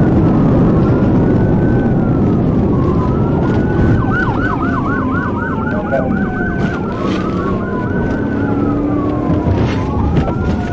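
Police car siren wailing in slow rising and falling sweeps, switching to a fast yelp of about four cycles a second from about four seconds in for roughly three seconds, then back to the wail. Under it runs loud, steady road and wind noise from the patrol car at pursuit speed.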